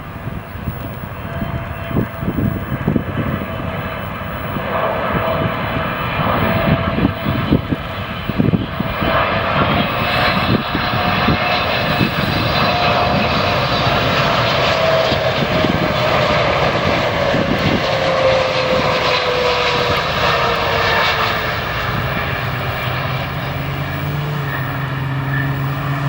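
Jet airliner's engines passing by. The noise builds to a peak around the middle and then eases, while a whining engine tone slides steadily down in pitch as the aircraft goes past.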